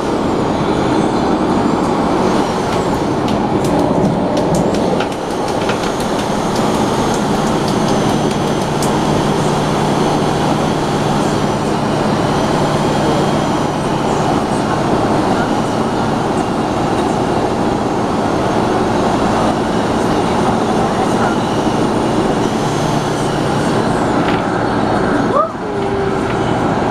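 MTR A-Train electric multiple unit running at speed, heard from on board: a steady rumble of wheels and running gear. A low steady hum comes in about eight seconds in and drops out in the last few seconds.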